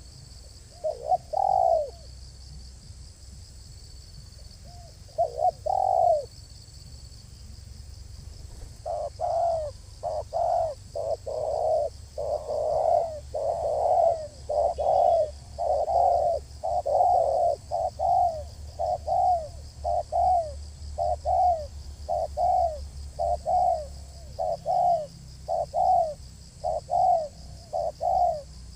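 Spotted dove (tekukur) cooing: two short coo phrases, then a long run of repeated coos about once a second. A faint steady high-pitched hiss runs underneath.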